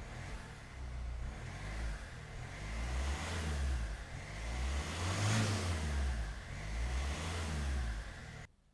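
Exhaust note of a 2015 Kia ProCeed's 1.4 CRDi diesel engine being revved, the pitch rising and falling several times with the biggest rev about halfway through. The sound cuts off abruptly near the end.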